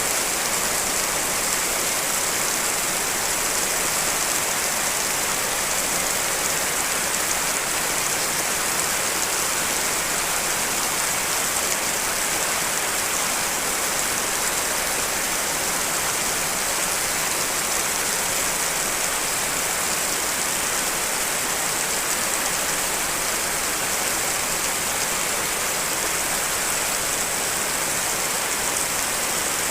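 Steady layered rain recording, an even hiss of falling rain with the most energy in the high range and no single drops or thunder standing out.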